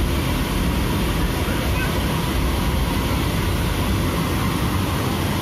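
Steady crowd noise: many indistinct voices over a continuous low rumble, with no single sound standing out.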